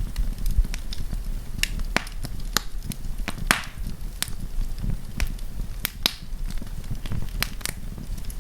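Wood campfire crackling: irregular sharp pops and snaps, a few a second, over a steady low rumble of the burning fire.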